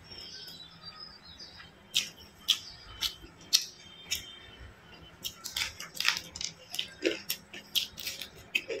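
Close-miked wet mouth sounds of eating by hand: lip smacks and clicks while chewing fried rice and fried chicken. They are sparse at first, then quick and irregular from about five seconds in.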